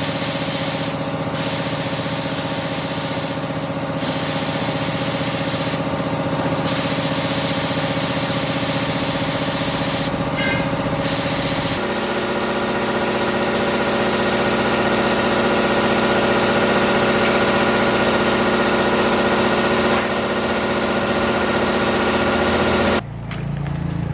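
A machine running steadily under a loud hiss that cuts out briefly and comes back several times. Its pitch changes abruptly about halfway through and again near the end.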